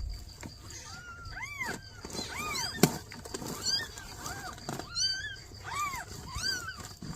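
Newborn kittens crying with a run of short, high-pitched meows, each rising and falling, about seven in a row. A sharp click sounds about three seconds in.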